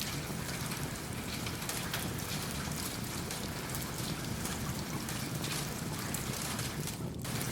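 Steady rain on a roof, a continuous hiss dotted with fine drop ticks over a low rumble, mixed with the crackle of a wood fire. The higher hiss drops out for a split second near the end.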